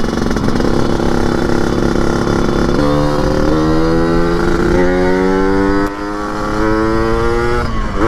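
Yamaha RX King two-stroke single with a chrome underbelly expansion-chamber exhaust, an open air filter and a 175-oversize piston, tuned for the growling "ngorok" note. It runs steadily at first, then from about three seconds in accelerates, its pitch climbing in several runs and dropping back between them as it shifts up.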